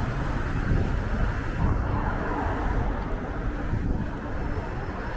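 Strong wind buffeting the microphone, a gusty low rumble with a steady rushing hiss above it.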